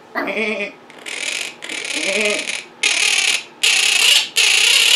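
Quaker parrots (monk parakeets) screeching: a run of about five loud, harsh squawks, each about half a second long, starting about a second in. Two shorter, voice-like pitched calls come near the start and about two seconds in.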